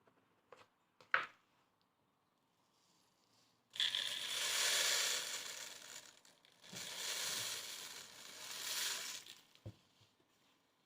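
Bird food poured into a plastic-bottle feeder, grains running down in two pours of a few seconds each, starting about four seconds in, with a short dip between them.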